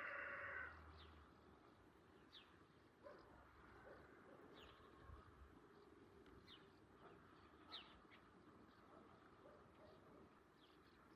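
A rooster's crow ends less than a second in. After it, small birds give short, faint, high chirps every second or two in a quiet rural background.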